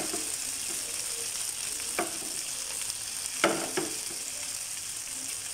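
A masala-coated brain frying in a little oil in a nonstick pan: a steady sizzle, with a few short clicks about two seconds in and again about three and a half seconds in.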